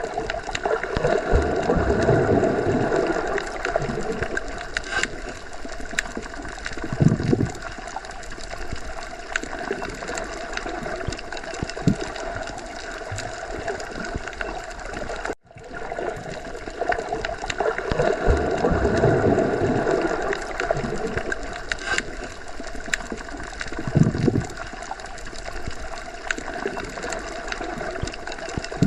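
Underwater sea ambience: a steady, muffled water wash with slow swells and a few low thumps. The track is a short loop, cutting out for an instant about halfway through and then repeating the same stretch.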